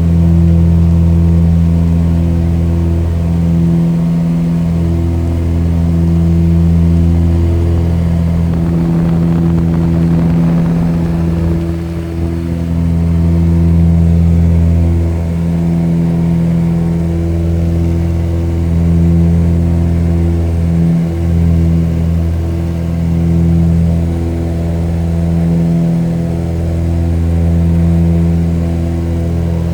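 Airplane engine running steadily at a constant drone, with a slow throb that swells and fades every couple of seconds.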